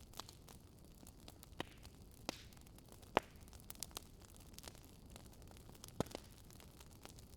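Crackling wood fire: a low steady rumble with sharp, irregular pops. The loudest pop comes about three seconds in and another strong one about six seconds in.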